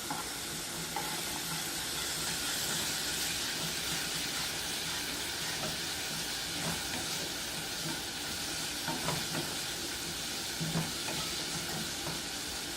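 Onions and green peppers sautéing in olive oil in a pot, a steady sizzle with an occasional light knock of stirring.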